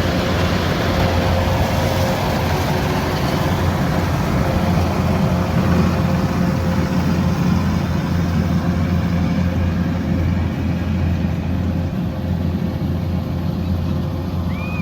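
Kubota combine harvester running steadily: a low engine drone with a broad rushing noise over it.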